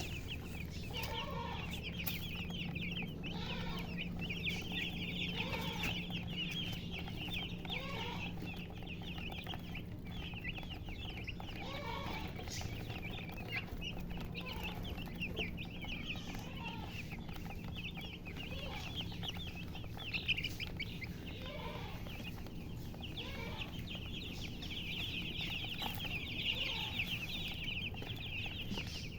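A group of chicks peeping continuously in rapid, overlapping high chirps, busiest in the last few seconds, while a hen gives lower clucks every couple of seconds.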